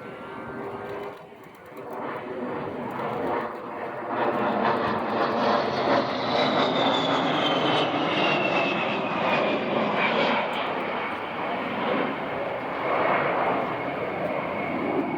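A-10 Thunderbolt II jet flying past, its twin TF34 turbofan engines running. The jet noise swells about four seconds in and stays loud, with a high whine that falls in pitch as the aircraft goes by, then holds steady.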